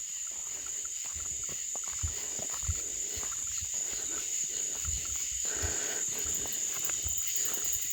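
Night chorus of crickets and other insects, a steady high-pitched drone, with soft, irregular footsteps underneath.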